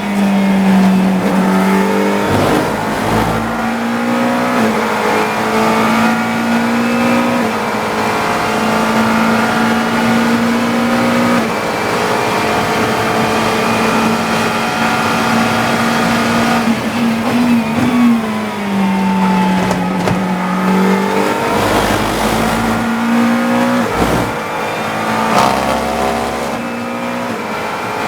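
GT3 race car's engine heard from the cockpit at racing speed, holding a steady high note for long stretches, with pitch steps and sweeps as it shifts gears and slows, and a few short low thumps.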